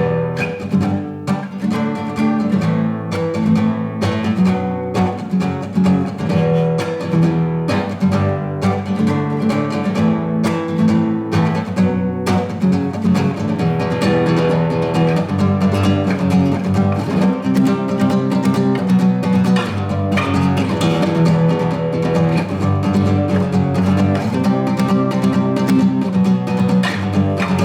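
Acoustic guitar strummed with a fast galloping down-up-down strum, with accented strokes, playing the song's instrumental intro over the chords E minor, G, D, A minor, B minor and F-sharp minor.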